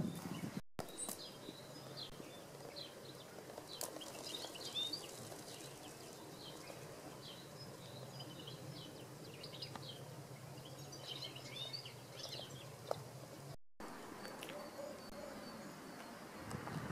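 Small birds chirping and singing, many short calls scattered throughout, over a faint steady low hum.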